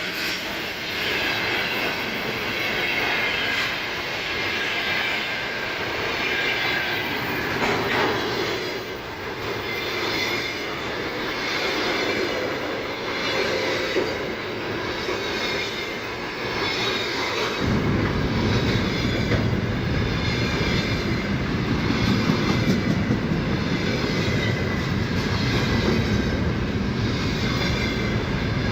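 Freight train passing close by, its wagons rolling over the rails in a steady rush with some clatter. About two-thirds of the way through, a deep rumble comes in suddenly and stays.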